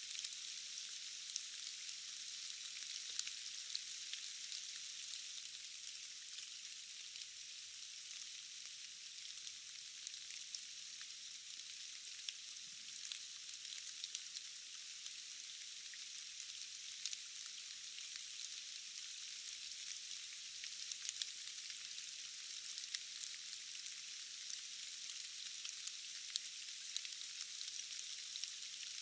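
Steady rain falling: an even, thin hiss with no low end, dotted with many small ticks of individual drops.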